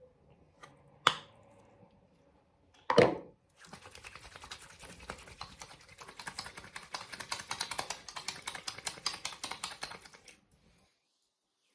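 A sharp click, then a louder knock, then several seconds of rapid, irregular clicking like typing on a keyboard, which stops abruptly.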